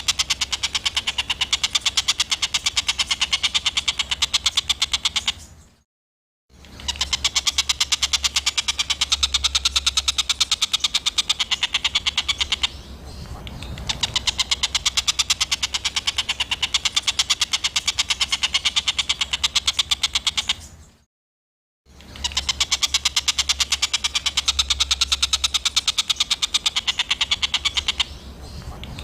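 Songbird's harsh, rapid-fire chattering call, a fast rattling string of rough notes repeated in long stretches with two short breaks. This is the kind of 'tembakan kasar' bird song that is played to train competition songbirds.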